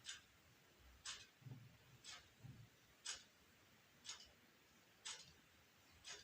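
A clock ticking faintly and evenly, one tick a second, with a couple of soft low thuds about a second and a half in.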